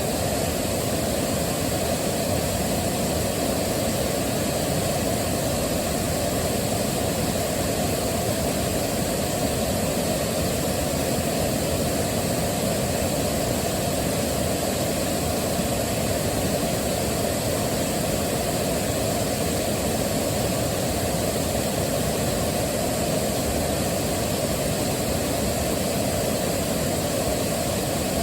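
Waterfall: water rushing in a constant, unbroken roar with its weight in the low range.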